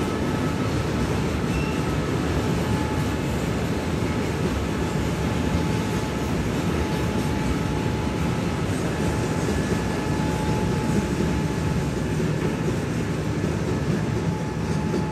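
Long freight train of tank wagons rolling past below, a steady rumble of wheels on the rails. A faint thin high tone runs through it.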